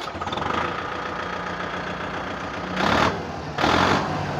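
Kubota MU5501 tractor's diesel engine idling just after starting, its exhaust fitted with a fake turbo whistle, with two short louder rushes of exhaust air about three and four seconds in.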